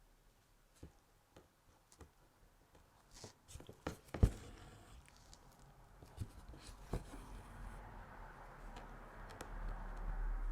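Needle and crewel wool being worked through embroidery fabric: faint pokes and taps, one sharp knock about four seconds in, then a longer scratchy rustle of wool drawn through the fabric that grows louder near the end.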